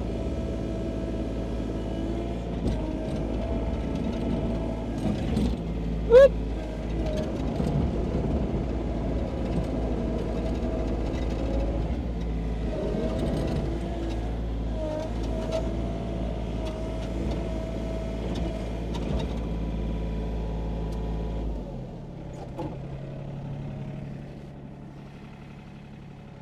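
Sany SY35U mini excavator's engine running steadily under work, with a few short knocks. About 21 seconds in it drops to a quieter, lower running level.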